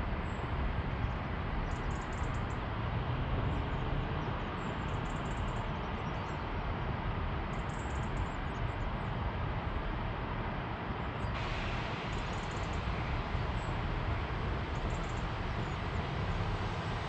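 Steady outdoor background rumble and hiss, like distant city traffic, with faint short high chirps scattered through it; the hiss grows a little brighter about eleven seconds in.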